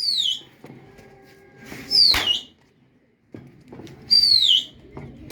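Three loud whistles about two seconds apart, each sliding down in pitch over about half a second, with a sharp crack just after the second.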